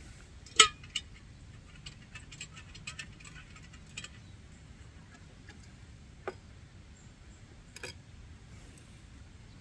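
Objects being handled: a loud sharp click about half a second in, then a run of light ticks and clicks over the next few seconds, and two more single clicks later.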